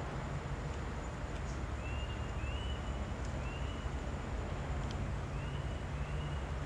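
Outdoor background with a steady low rumble, and a small bird giving short chirps about six times, a few at a time.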